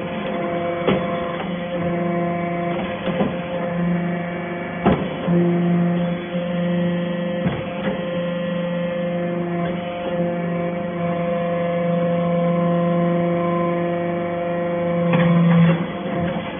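Hydraulic metal-shavings baler running: a steady hum from its motor and hydraulic pump, with a few sharp knocks now and then.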